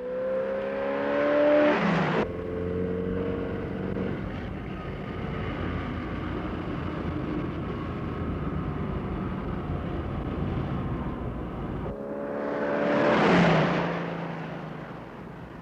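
Cars racing at high speed: a car's engine note climbs and then drops as it speeds past about two seconds in, followed by a steady run of engine and road noise, and another car speeds past with a falling pitch near the end.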